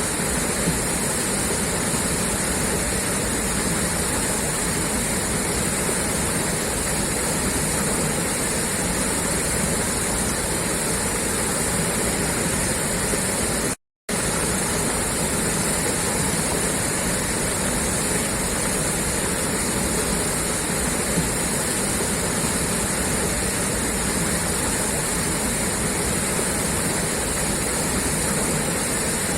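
Water gushing steadily out of a pipe, an even rushing sound. It cuts out completely for a split second about halfway through.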